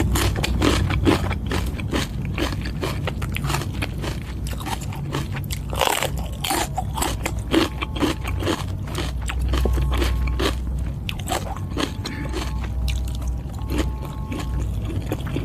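A person eating Thai boat noodles close to the microphone: wet chewing and biting with crunches and many small irregular mouth clicks.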